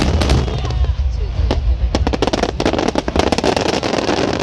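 Fireworks bursting in quick succession, with dense crackling and a constant deep rumble. Music plays along with the display.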